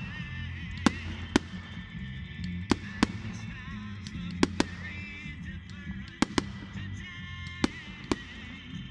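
Fireworks going off as about ten sharp, short cracks at irregular intervals, some in close pairs. Continuous music with a bass line and sustained tones plays underneath.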